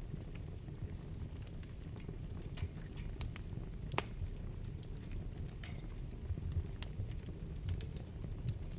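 Wood fire burning in a fireplace: a low, steady rumble of flames with scattered sharp crackles and pops. The sharpest pop comes about halfway through.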